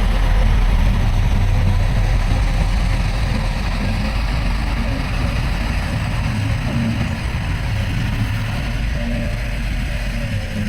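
Heavy diesel engine of earthmoving machinery running steadily, with a deep, even rumble.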